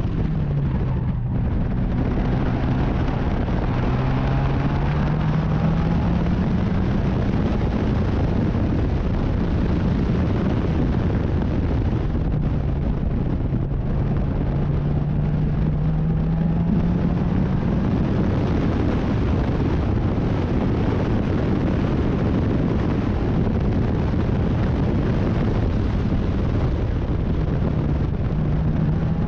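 Race car engine at speed, its pitch climbing slowly as the car accelerates, with brief lifts off the throttle about a second in and near halfway. Heavy wind buffets the microphone throughout.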